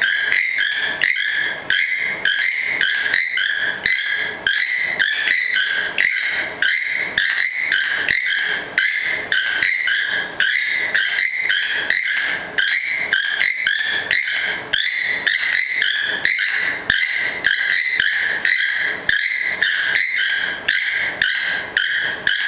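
A flock of birds calling nonstop, many short overlapping calls several times a second, a loud, dense caw-like din.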